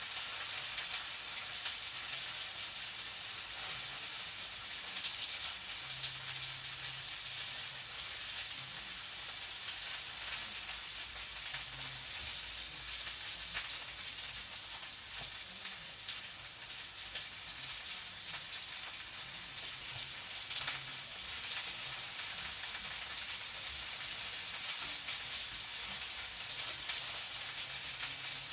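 Food frying in a pan: a steady sizzle with fine crackling throughout.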